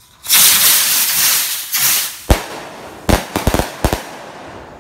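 Aerial fireworks: a loud rushing hiss for about two seconds, then a sharp bang and a quick string of bangs as the shells burst overhead.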